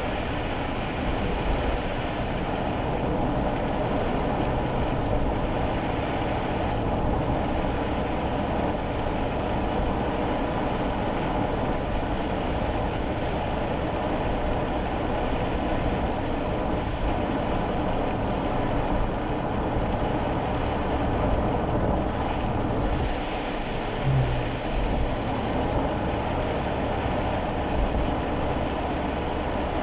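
Cabin noise inside a kei car driving on a wet road in the rain: steady tyre and road noise with the engine running underneath. There is a brief low thump about three-quarters of the way through.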